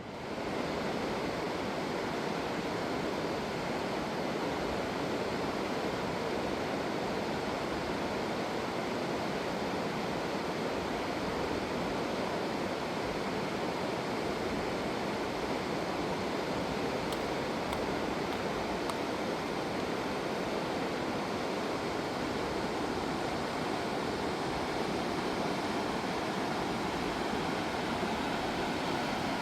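Fast-flowing river rushing, a steady even noise that swells up in the first moment and then holds level.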